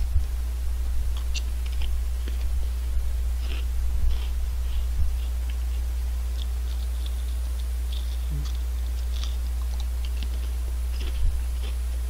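Crisp potato chips (Honey Tong Tong, apple and strawberry flavours) chewed close to the microphone: scattered short crunches, over a steady low hum.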